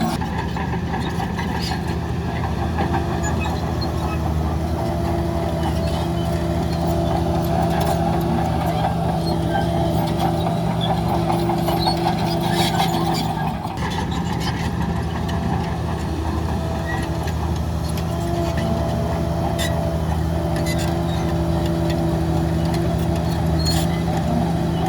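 Heavy diesel engine of earth-moving machinery running steadily, with a brief dip in its note about halfway through and scattered light clicks over it.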